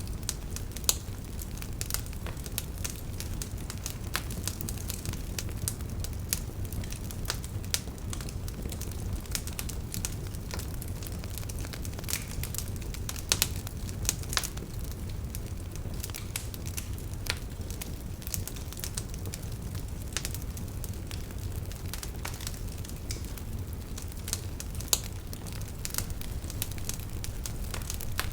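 Wood campfire crackling, with frequent sharp pops and snaps, over a steady low rush of flowing river water.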